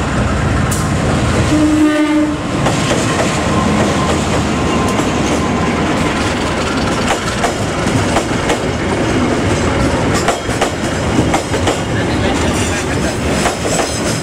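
Diesel-hauled passenger train passing close by. A short horn blast comes about two seconds in, then the coaches' wheels clatter rhythmically over the rail joints as the carriages go by.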